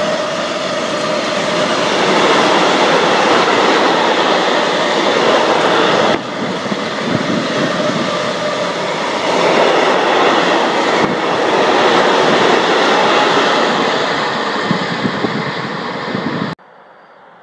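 Freight train of tank wagons rolling past close by: a steady, loud noise of wheels running on the rails. It cuts off abruptly near the end, leaving only a faint background.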